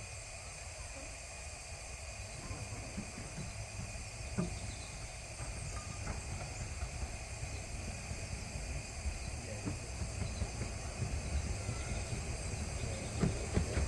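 A miniature steam locomotive approaching: steam hiss and a low rumble that grow steadily louder, with a few sharp clicks, the loudest near the end.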